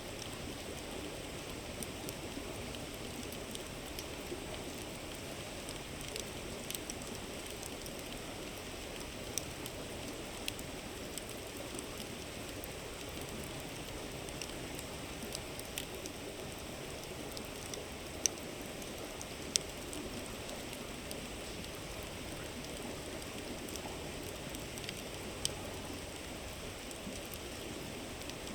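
A river's steady rushing murmur, with a campfire crackling and popping now and then; the two sharpest pops come a little past the middle, about a second apart.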